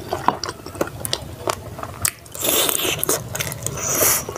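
Close-miked eating: wet mouth clicks and chewing, with two stretches of crackly crunching as crispy fried food is bitten, about halfway through and again near the end.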